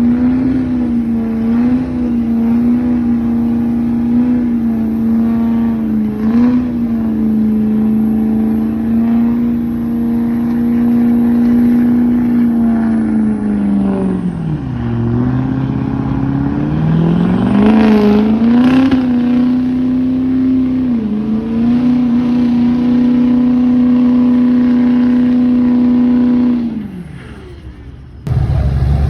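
A truck engine held at high revs during a burnout. About halfway through it drops sharply and revs back up, holds high again, then winds down near the end. A faint high whine rises and falls with the revs.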